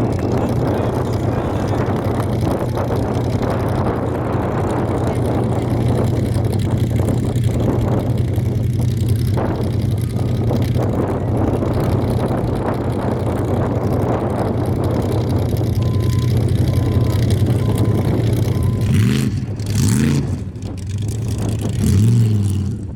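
Formula Offroad race truck's engine running hard at high, fairly steady revs, with a dense roar. Near the end the revs drop and rise again in a few short glides.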